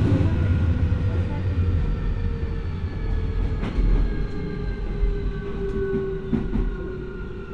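Keio 1000 series train heard from inside the car, running with its VVVF inverter and traction motors whining in several tones that glide slowly downward as the train slows on its approach to a station. Wheel rumble underneath, with a couple of faint rail-joint clicks.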